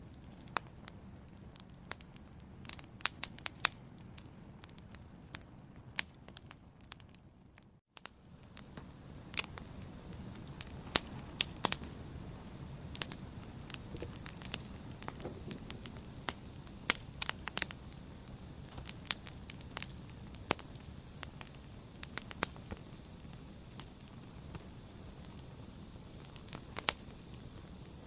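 Log fire in a fireplace crackling: irregular sharp pops and snaps over a steady low hiss and rumble. About eight seconds in, the sound drops out for a moment, and the hiss comes back a little louder.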